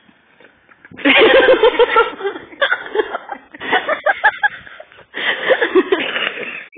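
A person laughing hard in three bouts of quick, pulsing laughter, starting about a second in, with short breaks between.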